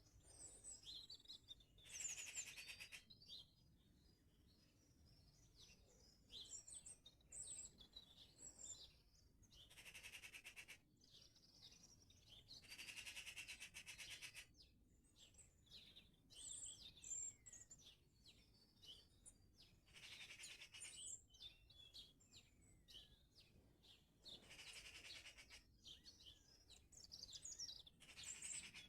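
Several small songbirds singing and chirping, in quick high twitters and short whistled glides. Every few seconds comes a louder, dense buzzy stretch lasting a second or two.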